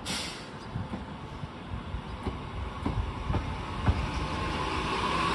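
A JR Kyushu 819 series DENCHA battery-electric train pulls away from the platform, getting louder as it gathers speed. There are scattered knocks from the wheels, and a whine from the traction motors builds near the end.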